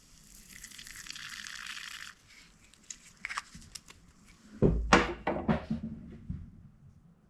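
An aerosol can of PB Blaster penetrating oil hissing for about two seconds as it is sprayed into the cylinder head to leak-test the valves. A few clicks follow, then a louder cluster of knocks and bumps from parts being handled, about five seconds in.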